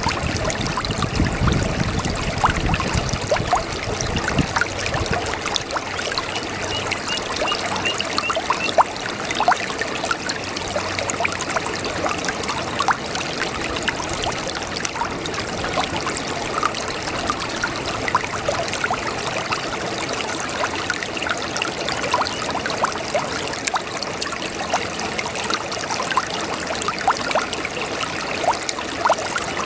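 Brook babbling: steady running water full of small splashes and gurgles, with a low rumble in the first few seconds.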